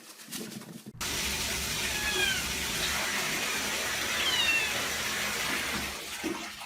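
A cat meowing twice, two short falling meows over a loud, steady hiss that starts abruptly about a second in.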